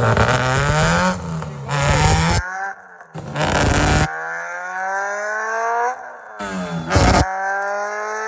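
Car engine pulling hard on a chassis dyno, its pitch climbing steadily over a couple of seconds at a time, in several stretches broken off by sudden cuts.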